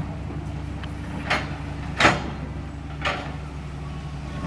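CAT 325L excavator's diesel engine running steadily, with three sharp knocks about a second apart, the middle one the loudest, as the machine works demolition debris.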